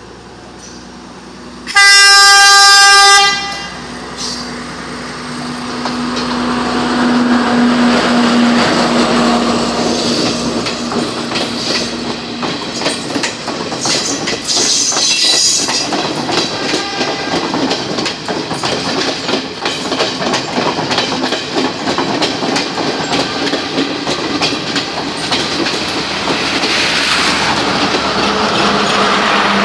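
Class S12 diesel multiple unit sounding one loud horn blast of about a second and a half, then running past close by with wheels clacking over the rail joints, growing louder again near the end.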